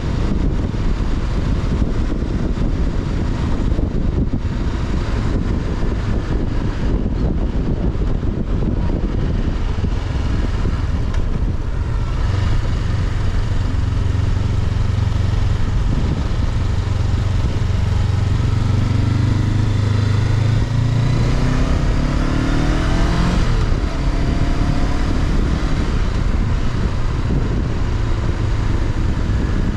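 Honda CB500X's parallel-twin engine heard onboard while riding, under heavy wind rush on the microphone. Partway through the engine note steadies, then its revs climb and fall away abruptly about two-thirds of the way in, as on a gear change.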